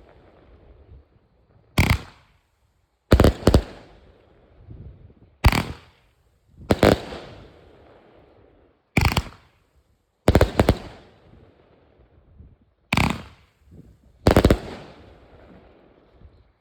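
Fireworks going off: about eight sharp loud bangs, one every second or two, each trailing off in a fading rumble and echo.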